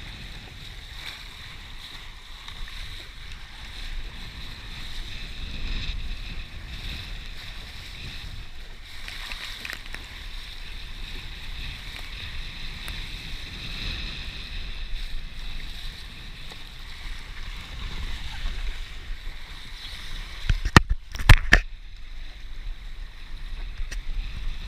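Laser sailing dinghy under way: a steady rush of water and wind noise on the microphone. About three-quarters of the way through there is a quick cluster of sharp knocks, the loudest sounds in the stretch.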